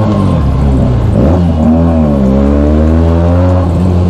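Benelli 600i inline-four with an aftermarket Ixil exhaust, running loud as the bike is ridden. The engine note drops and climbs back about a second in, then falls and rises again as the throttle is rolled off and opened.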